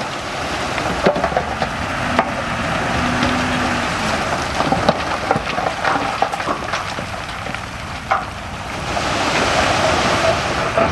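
Heavy earthmoving machinery running while it works soil, its steady engine noise mixed with a dense crackle of small clicks and cracks from soil and stones. A short low hum comes in about three seconds in.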